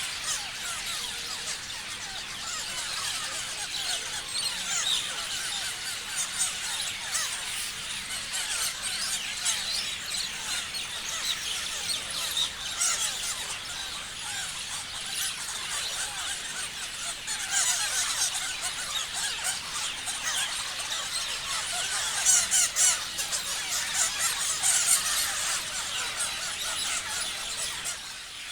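Many parrots chirping and calling at once: a continuous chatter of short, high, overlapping calls, with louder bursts of shrill calls in the second half.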